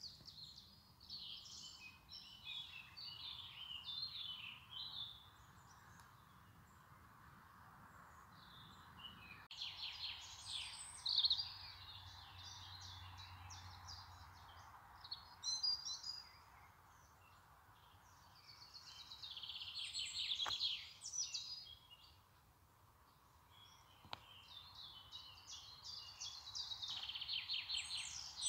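Songbirds chirping and trilling in bursts every few seconds, over a faint steady hiss.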